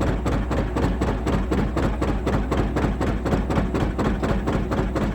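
John Deere R two-cylinder diesel tractor engine running steadily with an even putting beat, about five pulses a second.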